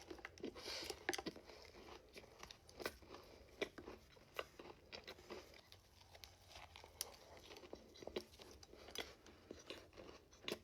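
A person biting into and chewing a thick peanut butter cookie topped with a Reese's cup, close to the microphone. It comes through as faint, scattered crunches and chewing clicks.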